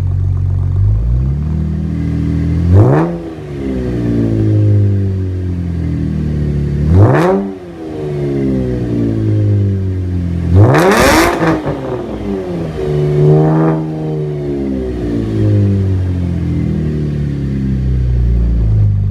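Chevrolet Camaro RS engine idling and being blipped: three sharp revs about four seconds apart, the third the highest, then a smaller one, each dropping quickly back to a steady idle.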